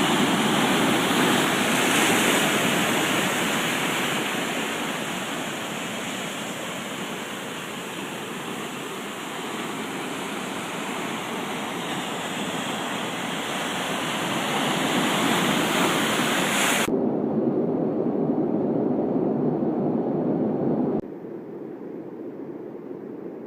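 Steady rush of falling water from a waterfall. It cuts abruptly to a duller rush about 17 seconds in, and to a quieter one about 21 seconds in.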